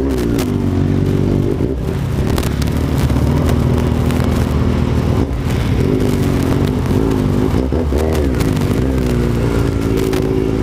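Kawasaki Z750 inline-four motorcycle engine running, its pitch rising and falling several times with the throttle.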